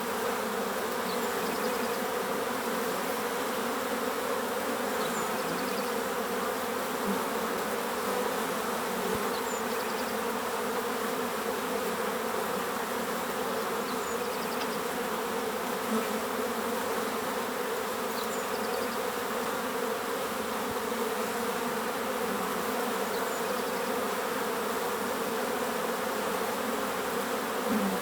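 A swarm of bees buzzing in a steady, dense hum. A bird gives a short, high call every four to five seconds.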